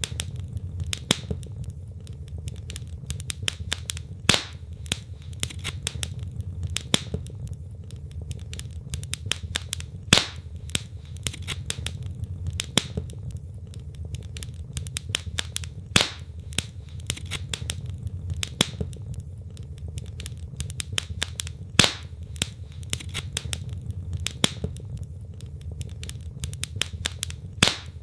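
Wood fire burning in a fireplace: logs crackling with many small snaps and a louder pop every few seconds, over a low steady rumble of the flames.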